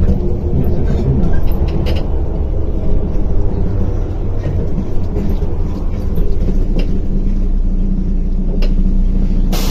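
MAZ 105 articulated city bus (simulated) driving with a steady low engine rumble and scattered interior rattles. A loud air hiss starts just before the end.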